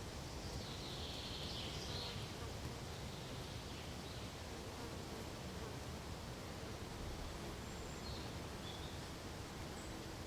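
Steady soft hiss of pine-forest ambience, wind and rustle through the trees. About a second in there is a faint high buzz lasting a second or so, and near the end a few faint short high chirps.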